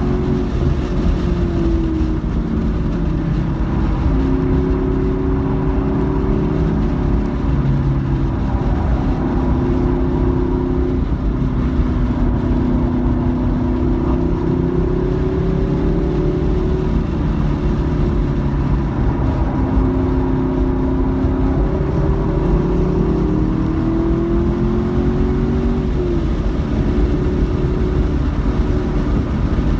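Car engine heard from inside the cabin while lapping at speed, its pitch climbing through the gears and stepping down at shifts and under braking, over a steady low rumble.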